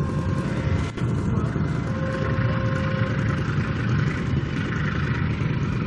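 A passenger train running past: a steady, heavy rumble, with a faint ringing tone from about two to three seconds in.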